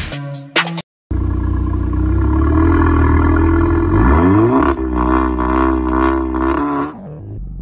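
Turbocharged four-cylinder engine of a stage 3 VW Golf Mk7 R with a straight-piped Milltek valved exhaust, revving with the car standing still. It holds steady revs, rises about four seconds in, gives a quick series of rev pulses, then drops back to a lower idle near the end.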